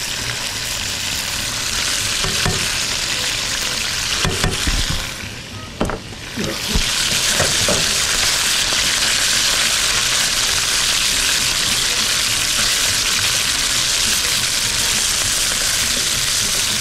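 Chicken breast strips and chopped garlic sizzling in hot oil in a karahi, stirred with a metal spatula. A few knocks and scrapes of the spatula come about four to six seconds in, and after that the sizzle is louder and steady.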